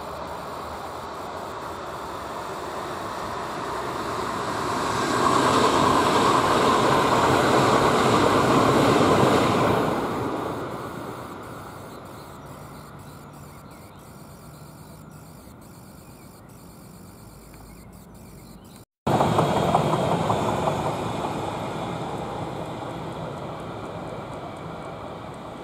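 A passing vehicle's noisy rumble swells to a peak and fades away; about three-quarters through, the sound cuts off abruptly and a second loud pass starts at once and fades.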